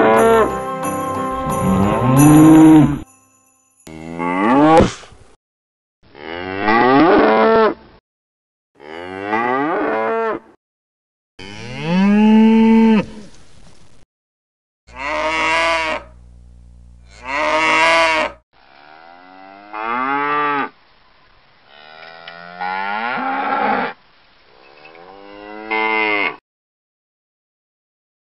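Cattle mooing: about ten separate calls, each lasting one to two seconds, cut apart by short silences. Many of the calls rise and then fall in pitch.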